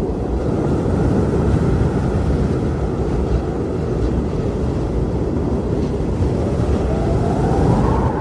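Blizzard wind blowing hard in a steady low rush, with a whistling howl that rises in pitch near the end.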